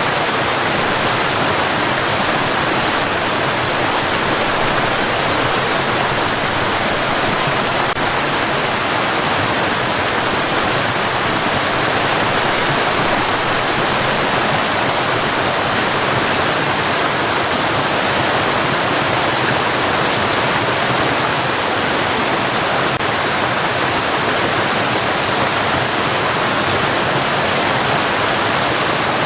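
Steady white noise played for sleep: an even, unchanging hiss with no rhythm or breaks.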